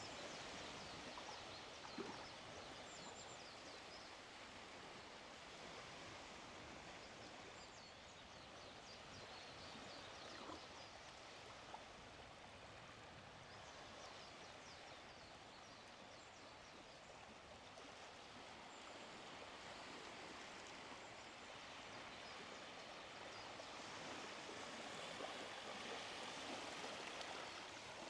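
Faint wash of small sea waves on a beach, a steady hiss that slowly swells and eases and grows a little louder near the end, with faint bird chirps high above it.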